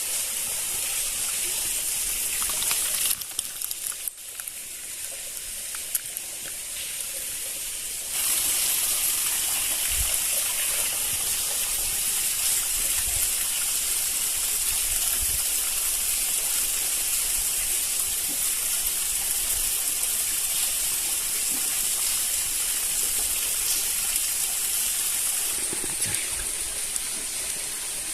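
Steady rushing hiss, quieter between about three and eight seconds in, then full again.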